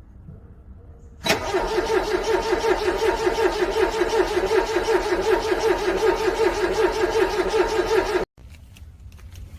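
A car's cold engine being cranked over by the starter, struggling in freezing weather: a steady rhythmic pulsing of roughly five or six beats a second that never settles into running. It starts about a second in and cuts off suddenly about eight seconds in.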